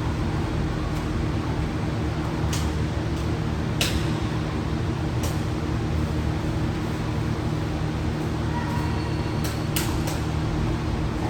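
A steady low mechanical hum, with a few sharp clicks scattered through it.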